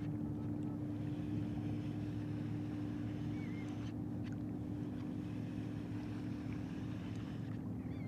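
A boat motor running steadily out on the water: a constant low hum with a steady drone.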